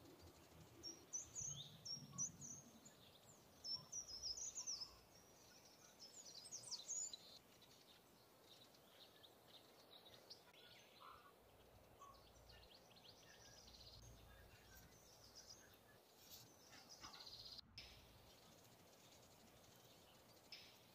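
Faint bird chirping: quick, high, sliding calls in clusters over the first seven seconds or so, then sparser and fainter, over a low hiss.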